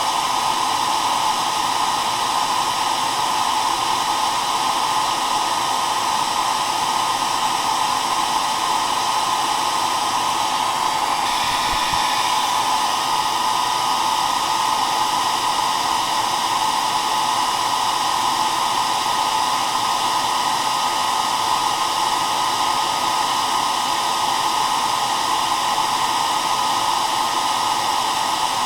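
Hair dryer running steadily, giving a continuous even blowing noise with no change in speed.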